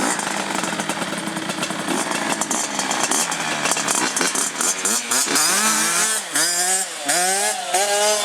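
Dirt bike engine running, first at a steady note, then from about halfway revving up and dropping back over and over, its pitch climbing and falling repeatedly.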